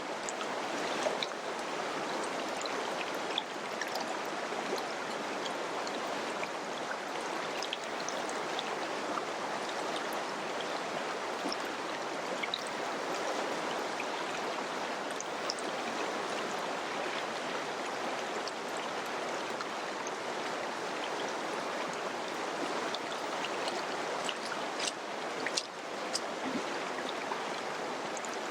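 Mountain river flowing over rocks: a steady rushing of water with small splashes and droplet ticks scattered through it.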